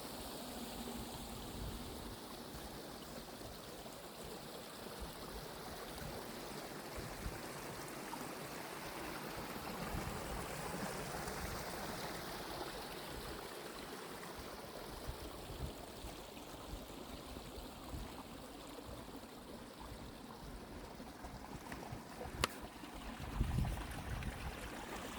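A small hill burn running, a steady rush of water over stones. Near the end a sharp click and a few low thumps stand out over it.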